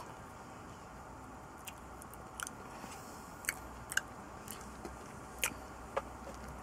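A person chewing a mouthful of banana with peanut butter spread, with a handful of sharp wet mouth clicks and smacks spread across the chewing.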